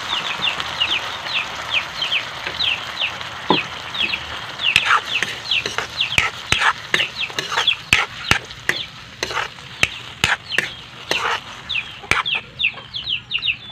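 Sardines frying in hot oil in a wok while a spatula stirs and scrapes them, with many sharp clicks of the spatula against the pan from about four seconds in. Short high chirps repeat throughout, like chickens or chicks in the background.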